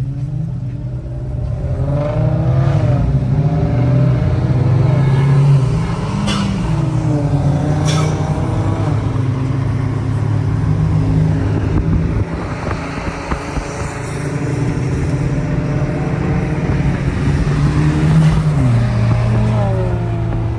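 Car engines running and revving, the pitch rising and falling again several times as they pull away. Two sharp clicks come about six and eight seconds in.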